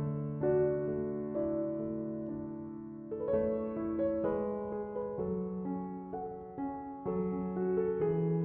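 Piano music: slow chords and single notes, each struck and left to fade before the next.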